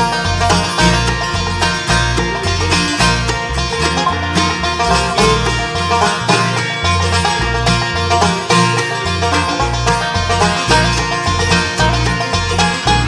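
A bluegrass band playing an instrumental introduction with no singing. The banjo rolls lead over guitar, and low notes step underneath as a bass line.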